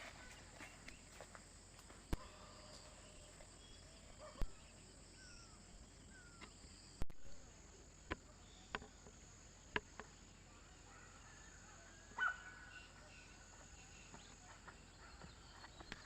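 Quiet forest ambience: a faint steady high-pitched insect drone, with a few short rising bird chirps and scattered sharp clicks or snaps.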